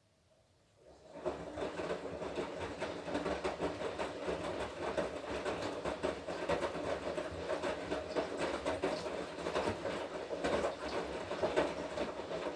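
Front-loading washing machine drum turning during the wash cycle: a steady churning rattle with many small clicks as the laundry tumbles. It starts about a second in, after near silence.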